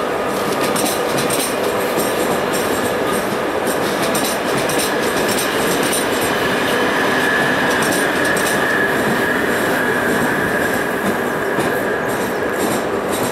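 A train running past on the track, a loud steady rumble of wheels on rail with irregular clicking. A steady high tone stands out through the second half.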